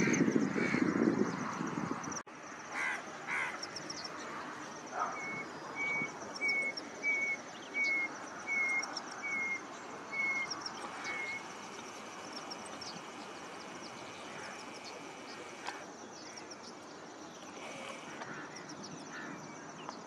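Outdoor bird sounds: about five seconds in, a bird repeats a short, clear call note about ten times, a bit under two a second, each note slightly lower than the last. Fainter high-pitched chirping continues behind it, with a few scattered calls. A low rumble in the first two seconds cuts off abruptly.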